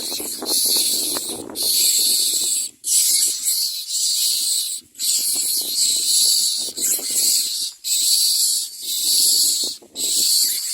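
Myna nestling begging: harsh hissing rasps repeated about once a second, each with a brief break between.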